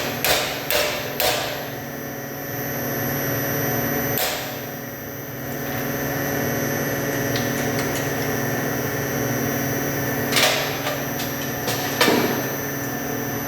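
Sharp metal-on-metal clanks of steel tools and billet striking: four in quick succession at the start, one about four seconds in and two near the end. Under them runs the steady hum of the press's motor.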